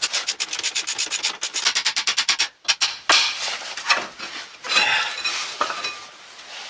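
A hand tool working on metal: a fast, even run of rasping strokes, about eight a second, that stops about two and a half seconds in, followed by irregular scraping and a few knocks.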